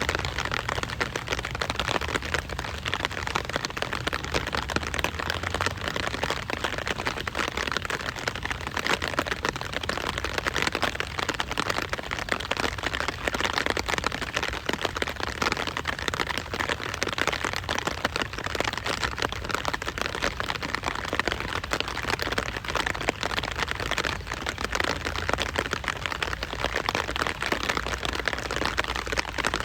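Steady rain: a dense, even patter of many drops striking a surface.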